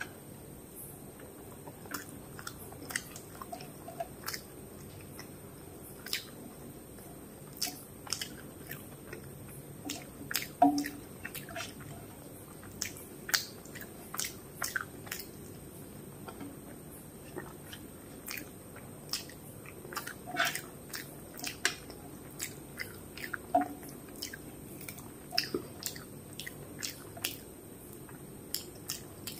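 Close-up, wet chewing and mouth smacks of a person eating rice and fish curry by hand, in irregular clicks up to a few a second.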